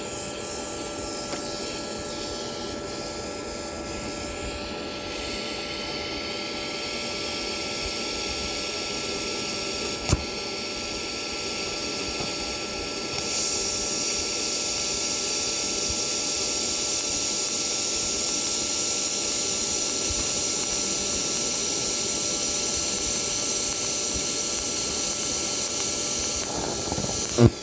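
TIG welding arc from a Toolion MIG-180 Pro inverter welder set to about 120 amps, giving a steady buzzing hiss over the machine's own hum. There is a click about ten seconds in, the arc grows louder partway through, and it ends with a sharp snap near the end.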